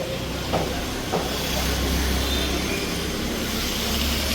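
A train running past with a steady low rumble and a hiss, with two short knocks about half a second and a second in.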